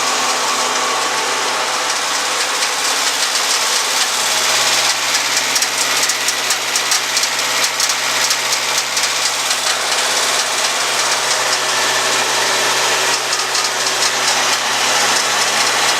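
Stump grinder's engine running steadily, with a rougher, wavering stretch through the middle.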